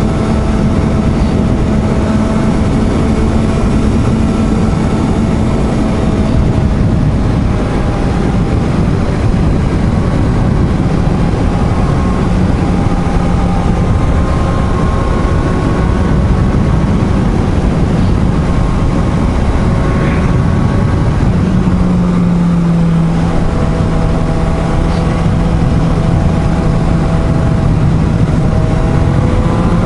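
Suzuki GSR750 inline-four motorcycle engine running at a steady cruise, with heavy wind rush over the helmet microphone. The engine note drops a little a couple of times, then climbs near the end as the bike accelerates.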